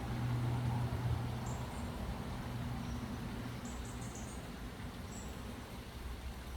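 A steady low engine hum, loudest in the first second and a half and then easing off, with a few short, high chirps over it.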